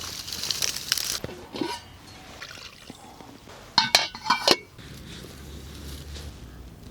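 Cookware clinking: a rustling hiss in the first second, then a quick cluster of sharp, ringing clinks about four seconds in, followed by a low steady background.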